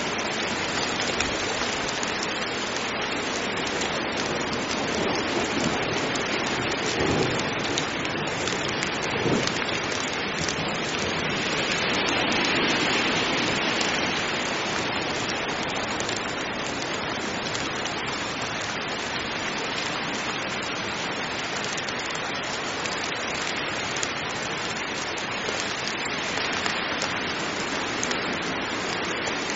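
Heavy rain falling steadily, swelling a little about halfway through.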